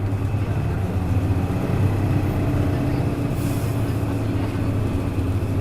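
Hino Blue Ribbon KC-HU2MMCA bus's diesel engine running steadily under way, a low droning hum with a steady pitched tone.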